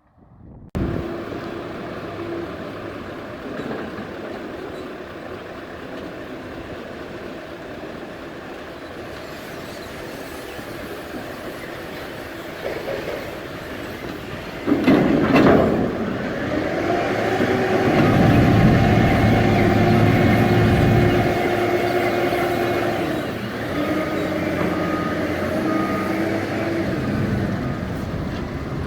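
Scania V8 truck engine running steadily, getting sharply louder about halfway through and holding a higher, fuller note for several seconds before easing back a little.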